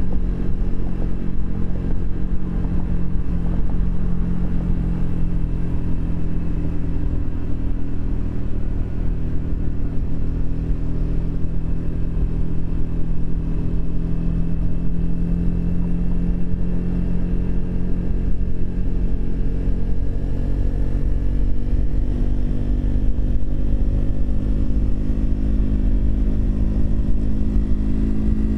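Triumph Speed 400's single-cylinder engine running at steady riding speed, its pitch slowly climbing over the last several seconds as the bike speeds up.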